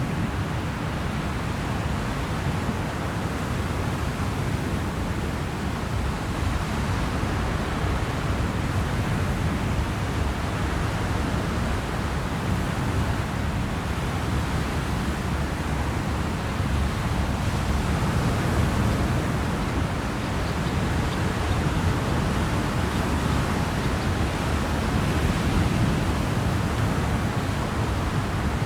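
Steady rushing noise aboard a moving ferry: wind and water wash over a low rumble, with no single event standing out.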